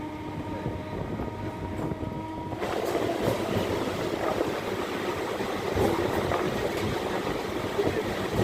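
MEMU electric passenger train heard from aboard: a steady electric hum at first, then from about two and a half seconds in a louder, denser rumble and rattle of the carriage running on the track.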